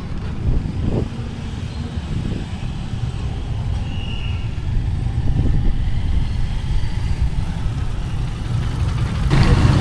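Vehicle moving through heavy traffic, a steady low rumble of engine and road noise.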